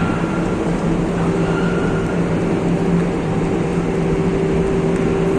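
Steady industrial drone of steel melt-shop machinery, with a constant low two-tone hum under a broad noise; no distinct clanks or impacts.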